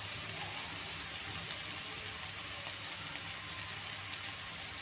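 Oil sizzling steadily under pieces of cabbage-and-egg cake frying in a pan, with light crackling and one sharper pop about two seconds in.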